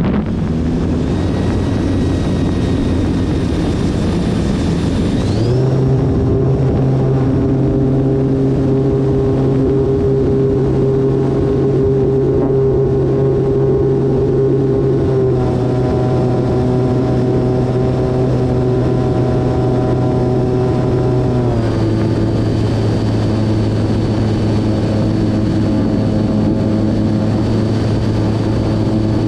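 Electric brushless motor and propeller of an E-flite Turbo Timber Evolution RC plane running steadily with a whine. The pitch steps up about five seconds in and steps back down around fifteen and twenty-two seconds in as the throttle is moved.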